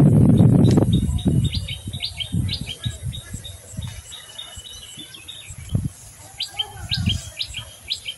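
A small bird chirping in two quick runs of short high notes with a pause between them. Over the first second there is a loud low rustling as the lemon tree's leafy branches are handled, and a couple of dull thumps come later.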